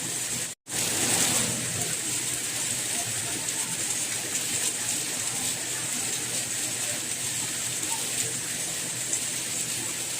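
Steady rain, an even hiss strongest in the high range. It cuts out completely for an instant about half a second in, then carries on.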